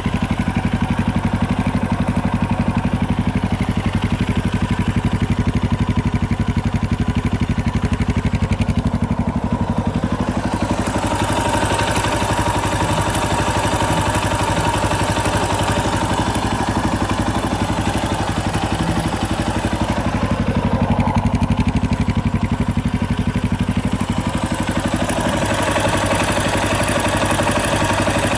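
Yamaha Tricker XG250's air-cooled single-cylinder engine idling steadily, with a mechanical clatter on top; the owner traces this abnormal noise to the cam chain tensioner. The clattering upper part of the sound grows louder about ten seconds in, fades around twenty seconds, and comes back near the end.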